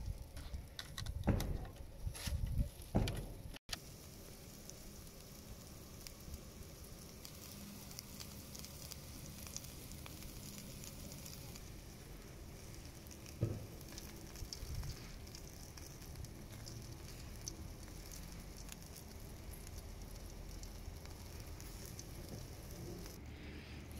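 Meat sizzling in a pan over a wood fire, a steady crackling hiss. There are a few louder knocks in the first seconds and one more about halfway through.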